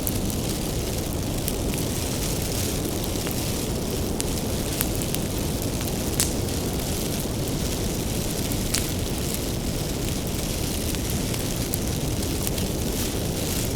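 Bonfire of firewood burning: a steady low rumble of flames with scattered sharp crackles and pops from the burning wood, the loudest pops about five, six and nine seconds in.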